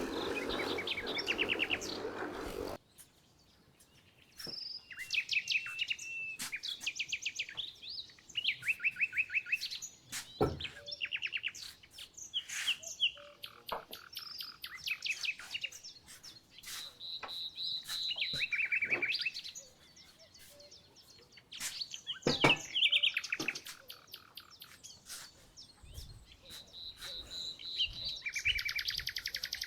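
Small songbirds singing: fast trilled phrases, each about a second long, repeated with short gaps. Occasional sharp clicks and knocks come through, the loudest about ten and twenty-two seconds in. A brief noisy rush opens the first couple of seconds.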